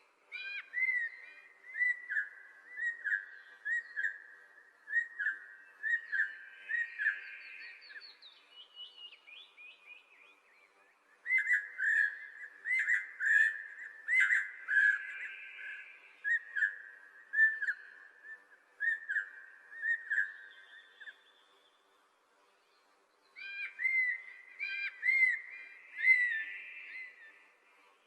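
A songbird singing rapid series of short, clear whistled notes, repeated at an even pace in three bouts with short pauses between them, with a brief higher trill between the first two bouts.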